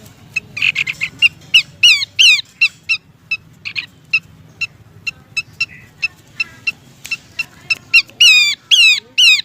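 Pelanduk semak (Abbott's babbler) calling: a quick string of short, sharp call notes broken by loud falling whistles, a pair about two seconds in and another pair near the end. These are lure calls, given as a female calling a male.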